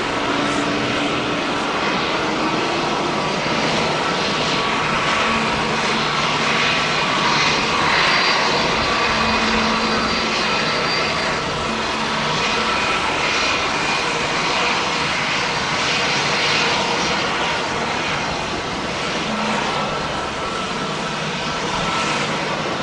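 Boeing 777-300ER's twin GE90 turbofan engines running, loud and steady noise with whining tones, swelling most about eight seconds in.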